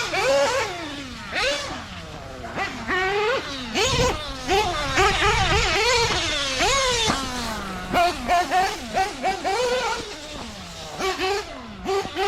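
Nitro engine of a Mugen MBX8T RC truggy (an Adam Drake 2), revving up and falling back again and again as the truck accelerates and brakes, with a quick rising and falling whine. A short rush of low noise comes a little before the middle.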